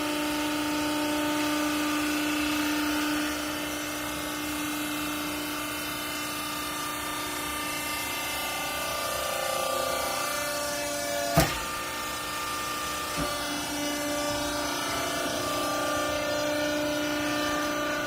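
Clothing hydraulic baler running with a steady machine hum whose pitch shifts a few times, with one sharp loud bang a little past halfway and a lighter knock soon after.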